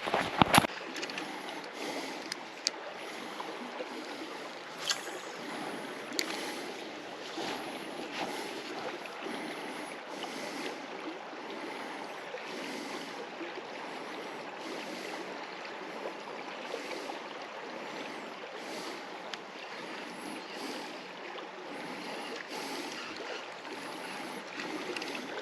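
Steady splashing and rushing of moving water, swelling about every two seconds, with a few light knocks.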